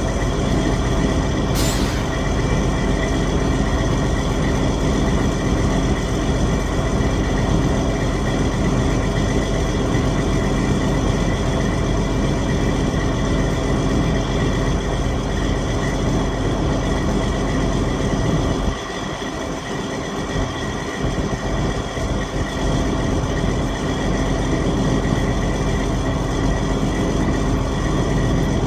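Detroit Diesel Series 60 14.0L inline-six diesel in a Freightliner Columbia truck running steadily after a cold start in −20°C weather, with a short sharp sound about two seconds in. For about two seconds past the middle, the deep low rumble thins out and the level dips slightly.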